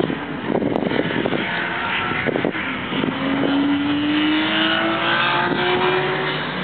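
Car engine accelerating hard along the circuit, its pitch rising slowly and steadily through one gear over about three seconds from halfway in.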